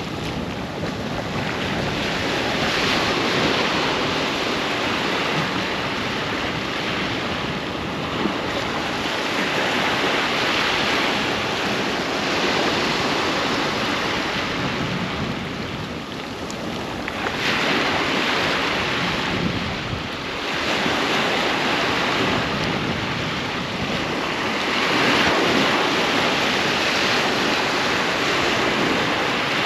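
Sea waves breaking and washing up a sandy beach, swelling and easing in turn every several seconds, with wind buffeting the microphone.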